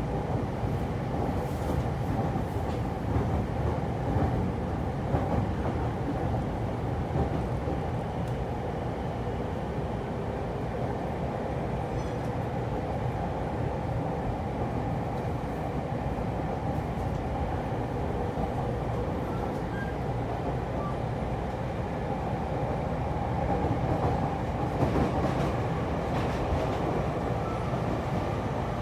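E231 series electric multiple unit running steadily along the line, heard from inside the car: a continuous rumble of wheels and running gear on the rails, with a few faint clicks near the start and again about twenty-four seconds in.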